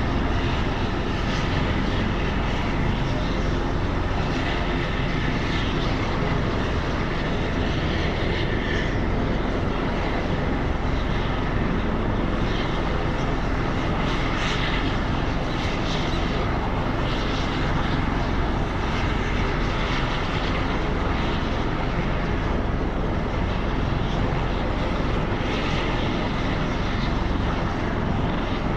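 Helicopter running steadily: turbine engine and rotor noise, loud and even throughout.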